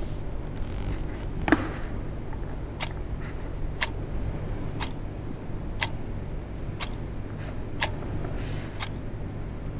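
A clock ticking once a second, sharp even clicks over a low steady hum, with a single louder click about a second and a half in.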